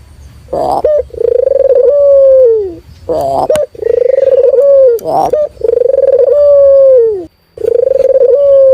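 Local puter (Barbary/ringneck dove) cooing repeatedly: a short note followed by a long, steady coo that drops in pitch at its end, four times over.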